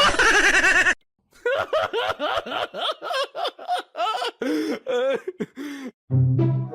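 A person laughing in a quick run of short pulses, each rising and falling in pitch, after a brief break about a second in. Music with low strings begins near the end.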